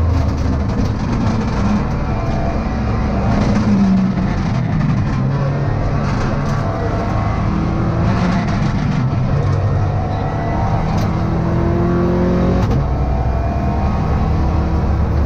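Subaru Impreza rally car's flat-four engine heard from inside the cabin, revving up and falling back repeatedly as it is driven hard through the gears, over steady road noise.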